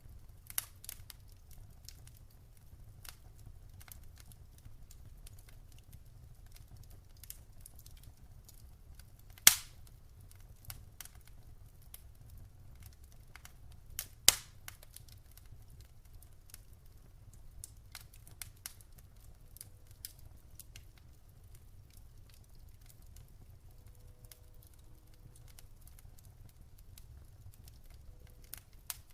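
Wood fire burning in a fireplace, crackling with scattered small snaps over a low rumble of flames, and two loud sharp pops about ten and fourteen seconds in.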